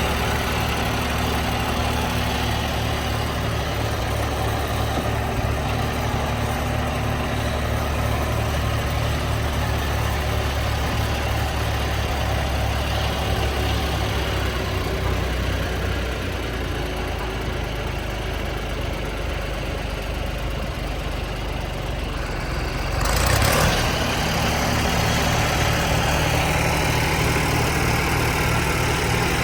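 John Deere 1020 tractor's three-cylinder engine idling steadily. About three-quarters of the way through there is a brief louder rush of noise.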